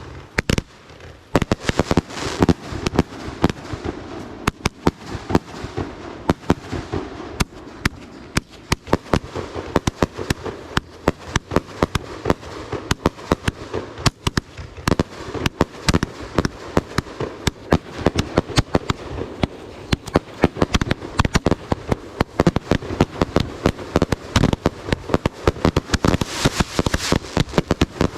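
Fireworks going off in rapid succession: a dense, near-continuous crackle of many sharp bangs, with some louder reports among them, starting about a second in after a brief lull.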